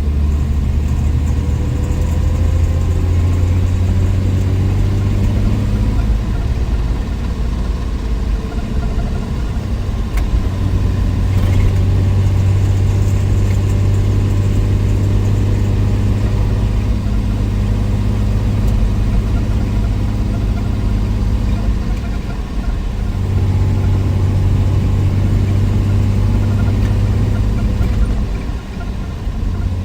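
Willys Wagon's 230 OHC Tornado inline-six running steadily under way, with a low, even drone. The engine note eases off briefly three times before settling back in.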